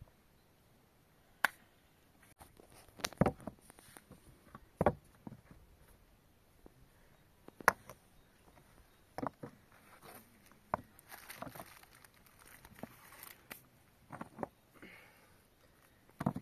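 Irregular knocks and taps, about a dozen sharp strikes spread unevenly, with light scraping in between, like materials being handled during manual work.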